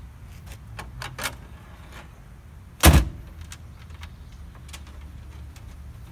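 Corvair's 1969 air-cooled flat-six idling steadily, running smoothly on its newly fitted electronic ignition. A few light clicks come about a second in, and one loud knock comes about halfway through.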